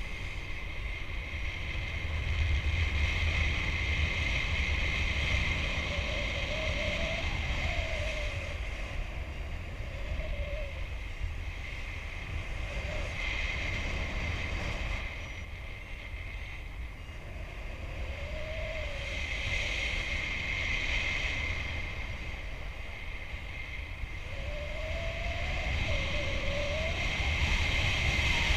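Wind rushing over the microphone in paraglider flight: a steady rumbling buffet that swells and eases every few seconds, with a faint wavering whistle that rises and falls several times.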